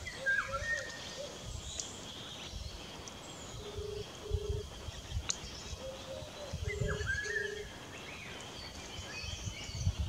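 Wild birds calling: a short whistled call with a falling hook, given twice, and two pairs of short, even low hoots.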